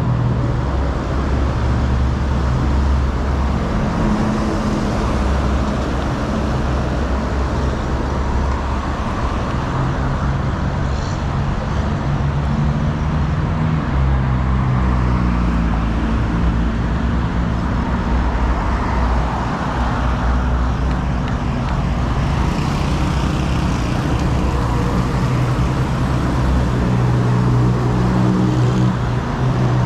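Busy city road traffic: the engines of nearby cars and other vehicles hum steadily under a constant wash of road noise, with vehicles coming and going.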